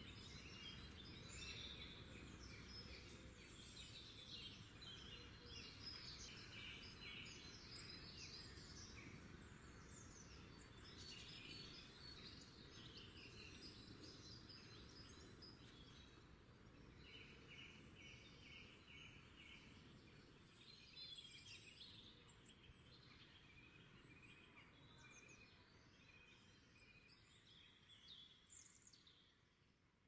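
Faint birdsong: several birds chirping and trilling over faint low background noise, fading out toward the end.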